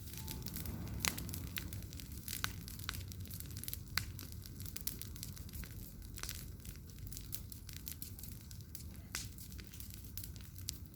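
Wood bonfire crackling, with sharp pops scattered irregularly over a low steady rumble.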